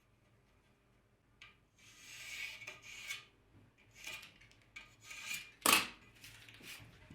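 Hand tool or workpiece rubbing or scraping in several short strokes, with one sharp knock near the end.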